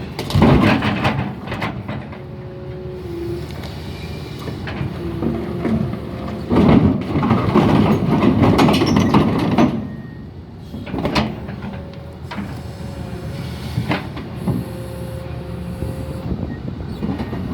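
Heavy diesel machinery running steadily, with loud bouts of metal clanking and scraping about a second in and again from about six to ten seconds in.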